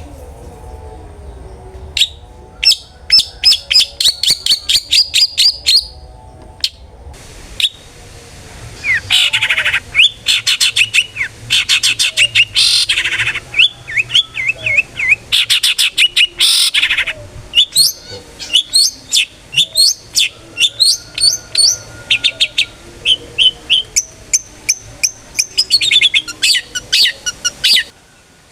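Long-tailed shrike (cendet) singing loudly in long runs of rapid, sharp repeated chirps, with short breaks between bouts.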